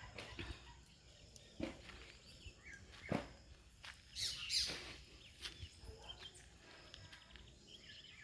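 Faint outdoor ambience with scattered bird chirps, including one louder falling call about halfway through, and a couple of soft knocks in the first few seconds.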